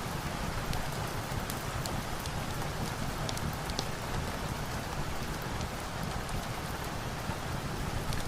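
Steady rain on a surface, with scattered sharp crackles of a wood fire now and then.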